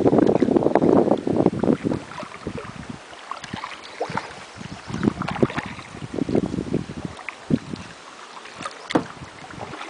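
Wind buffeting the microphone for the first two seconds, then irregular splashes and knocks of water and paddles around a small boat on a river.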